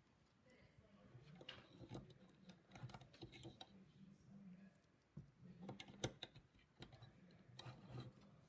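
Faint, irregular clicks and light rattles of plastic LEGO pieces being handled and pressed together, with one sharper click about six seconds in.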